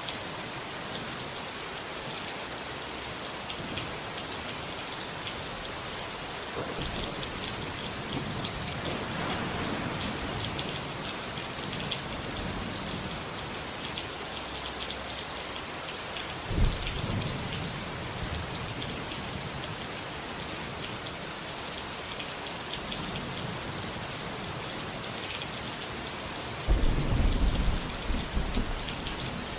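Steady rain with thunder: soft rumbling partway in, a sharp crack about halfway through, and a loud rolling rumble near the end.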